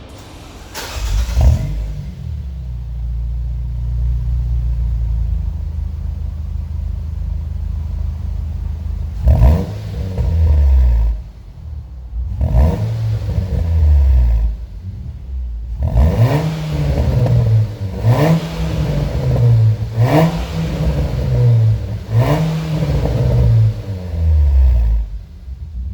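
Nissan March Nismo S engine through a Kakimoto GT box 06&S aftermarket exhaust: started about a second in and left to idle, then revved twice, then blipped about five times in quick succession before settling.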